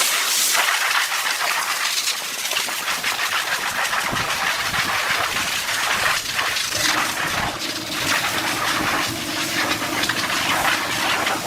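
A woodworking tool working wood: a steady hissing noise that starts abruptly, with a low hum joining about seven seconds in.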